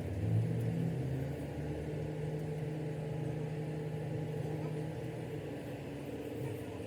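A steady low mechanical hum, slightly louder in the first second and easing off about five seconds in.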